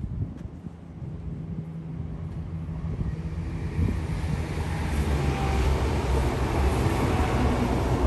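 Two coupled Class 168 diesel multiple units approaching: a low diesel engine drone and a rising rush of wheels on rail, growing steadily louder from about three seconds in and loudest near the end as the train comes alongside.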